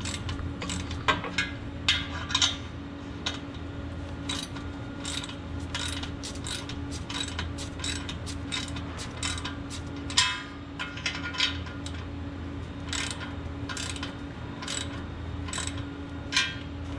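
Ratchet wrench clicking in short, irregular strokes while tightening the exhaust clamp nut on a muffler delete pipe, over a steady low hum.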